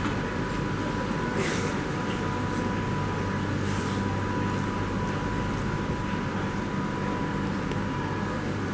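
Train standing at a station platform: a steady hum with a constant whine. Two short hisses come about one and a half and four seconds in.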